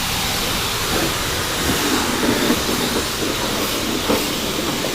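Car wash equipment running with a steady, even hiss.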